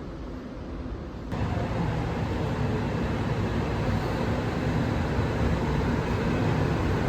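Steady rumbling run of a subway train heard from inside the carriage, starting abruptly about a second in.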